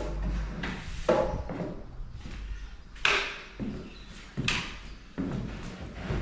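Broom sweeping fine MDF sawdust across a concrete floor in a handful of separate rough strokes, about one every second or so.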